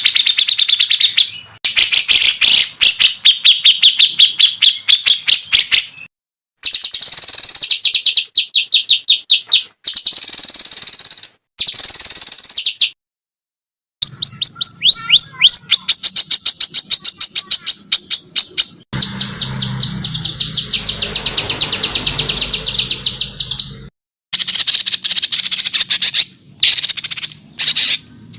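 Recorded songbird song used for bird training (masteran): harsh, fast-repeating chattering trills, the rough rapid-fire 'tembakan' type, in clips that start and stop abruptly with short silent gaps between them.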